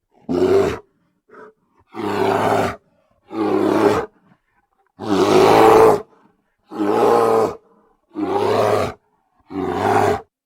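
A large animal roaring loudly in a series of separate calls, about eight in all, each under a second long with short silent gaps between them.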